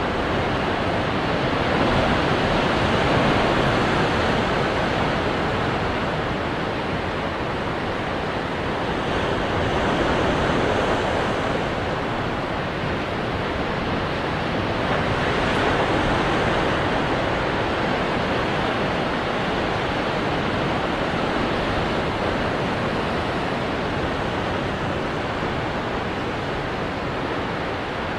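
Ocean waves breaking on rocks, a continuous rushing wash that swells and eases every several seconds.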